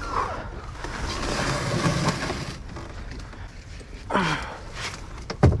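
Wind noise buffeting the microphone, with a short falling vocal sound about four seconds in and a sharp knock just before the end.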